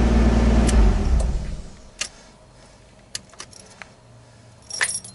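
Nissan Skyline R32 GTS-t's RB25DET straight-six running steadily, heard from inside the cabin, then dying away about a second and a half in. Sharp clicks follow, then a brief jingle of the ignition keys near the end.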